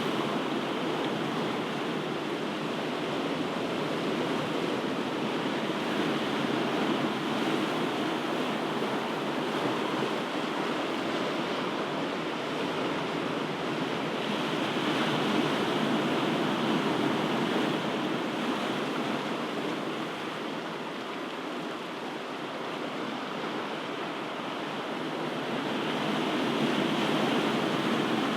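Ocean surf: a continuous wash of breaking waves that swells and eases slowly, louder near the middle and again near the end.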